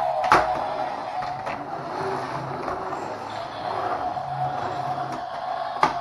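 Toy pickup truck making a steady engine-running sound effect through its small speaker, with a sharp knock just after the start and another near the end.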